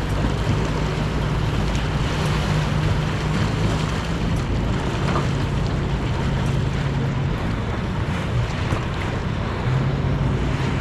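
Turbocharged Ford engine of a small racing powerboat running steadily at speed, heard onboard under a heavy rush of wind and water.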